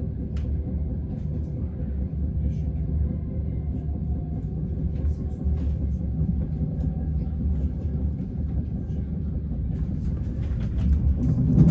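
Frecciarossa ETR 500 high-speed train running, heard inside the passenger coach as a steady low rumble with a few faint clicks, growing louder near the end.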